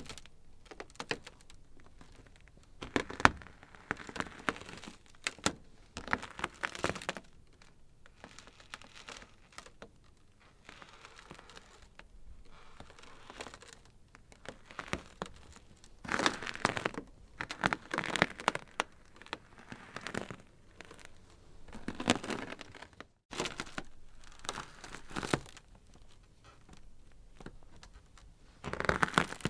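Ice crackling: irregular clusters of sharp cracks and snaps, with quieter stretches of faint crackle between them.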